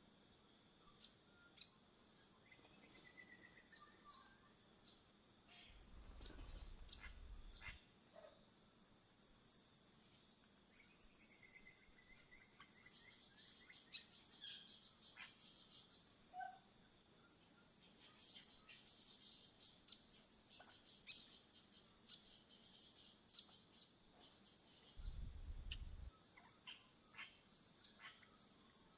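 Wild birds chirping and calling over and over, high and rapid, mixed with a steady high insect-like trill. Two brief low rumbles break in, about a quarter of the way in and near the end.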